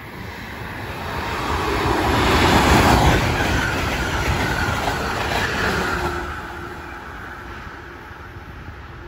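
Amtrak passenger train with stainless-steel Amfleet coaches passing through the station at speed: the rumble and rush of wheels on rails swells to its loudest about three seconds in, holds until about six seconds, then fades away.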